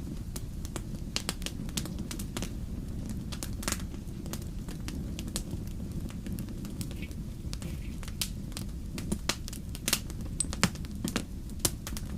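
Wood fire crackling: irregular sharp pops and snaps over a steady low noise of the burning logs.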